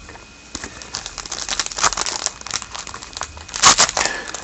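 Trading-card pack wrapper being torn open and crinkled by hand, a dense crackle that builds about a second in and is loudest near the end.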